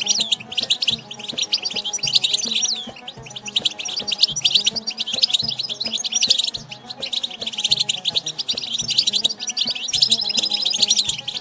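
European goldfinch song: a fast, continuous twittering of chirps and trills, with brief lulls about three and seven seconds in, over soft background music.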